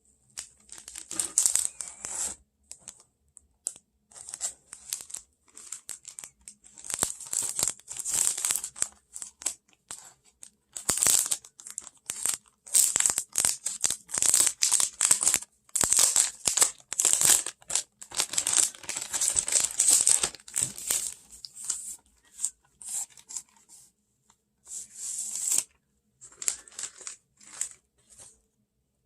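Crinkling and tearing noises in rapid, irregular bursts with short pauses between them, as of something being crumpled and torn by hand.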